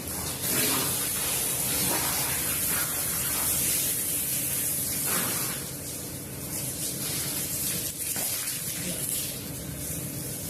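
Water spraying hard onto a wet rug, a steady hiss that is louder for the first five seconds or so, then softer, over a low machine hum.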